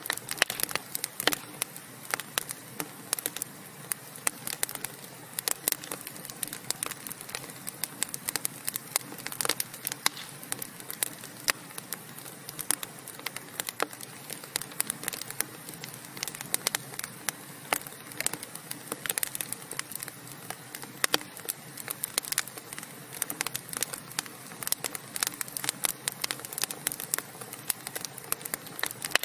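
Wood fire burning in a fireplace, crackling with many sharp, irregular pops over a soft steady hiss.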